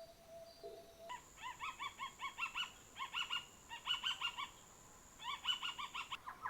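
A bird calling in a fast run of short, repeated, clear notes, about four or five a second, in three bursts with brief pauses. The calls begin about a second in.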